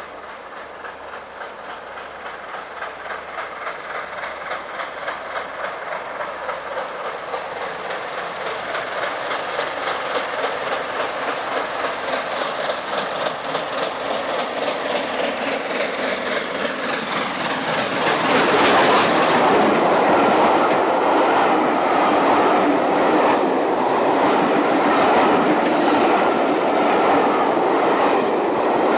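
LNER A4 Pacific steam locomotive 60009 approaching at speed, its rapid exhaust beats growing steadily louder, then passing close about 18 seconds in. The coaches follow, rushing past with loud, steady wheel clatter on the rails.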